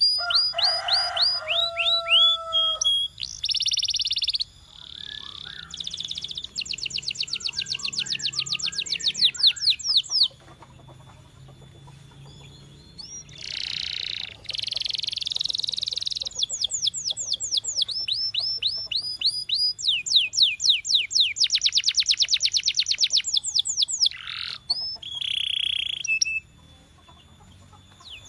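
Canary singing: fast trills of rapidly repeated falling notes and rolls, mixed with a few held whistles, including a lower whistle at the start. It pauses briefly about ten seconds in and again near the end.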